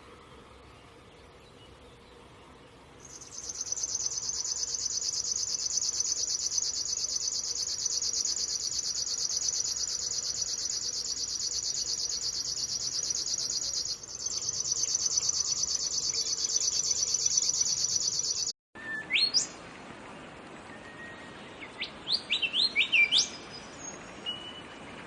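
Songbird song: a long, very fast, high-pitched trill that runs for about fifteen seconds with a brief break partway, then, after a cut, a few quick rising-and-falling whistled chirps.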